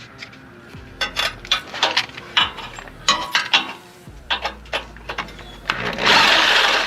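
Sharp metal clanks and rattles against the steel exhaust pipe, then near the end a reciprocating saw (Sawzall) starts cutting through the pipe with a loud, steady rasp.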